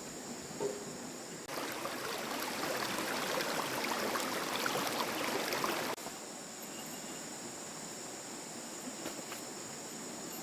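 Insects, crickets or cicadas, chirring steadily in a high band. For a few seconds in the middle a louder, crackly rushing noise covers them; it starts and stops abruptly.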